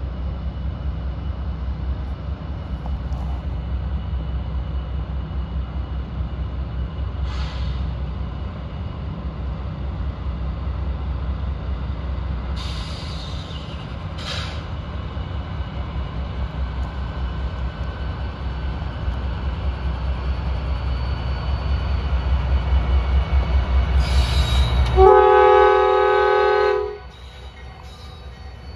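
Norfolk Southern diesel freight locomotives rumbling low as they approach, growing louder. About 25 seconds in, the locomotive's air horn sounds one chord of several tones for about two seconds, the loudest sound, then stops.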